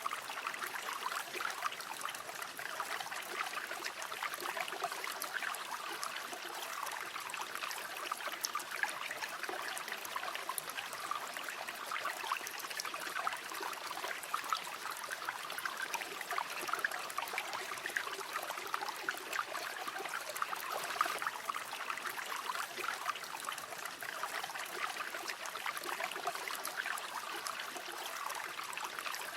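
River water flowing steadily, a continuous babbling rush with many small splashes and gurgles.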